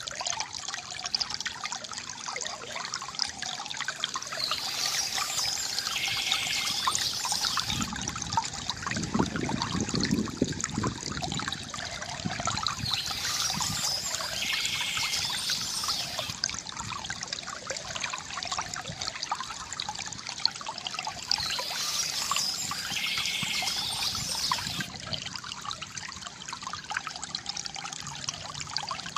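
River water gurgling and trickling steadily, with a deeper, fuller gurgle about a third of the way through. Brighter splashy patches recur about every eight to nine seconds.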